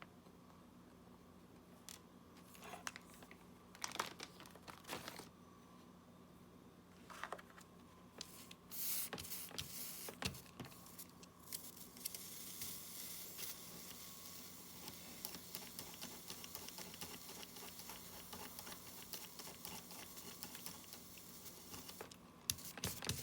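Small tools clicking and tapping on a repair bench during soldering work. About halfway through, a faint, steady crackling hiss sets in.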